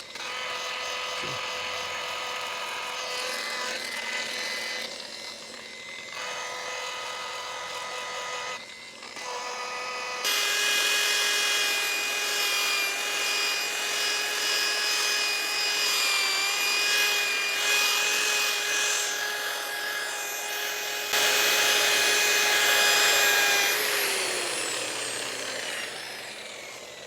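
Handheld electric stone polisher running with its pad worked along a marble edge to smooth and shine it. The motor whines steadily, dips briefly twice, runs louder under heavier rubbing from about ten seconds in, and winds down with a falling whine near the end.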